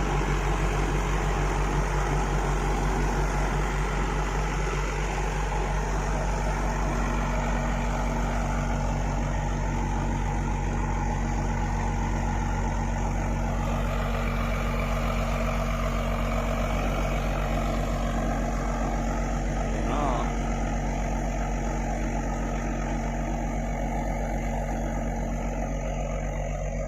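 Diesel engine of an IVECO 6x6 truck tractor running steadily, a constant low drone.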